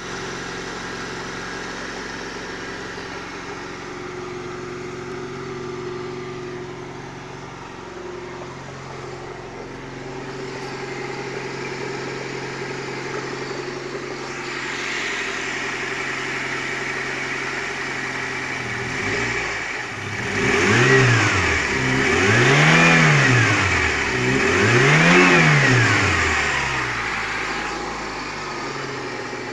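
A Lada Niva's swapped-in 16-valve four-cylinder engine from a Lada Priora idles steadily. About two-thirds of the way through it is revved three times in quick succession, each blip rising and falling back to idle.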